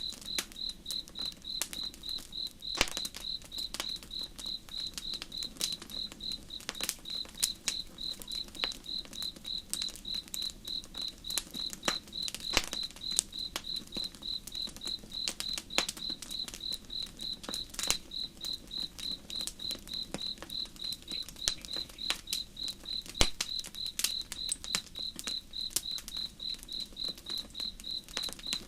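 A cricket chirping in a steady, evenly spaced rhythm, with the sharp, irregular pops and crackles of a burning wood campfire.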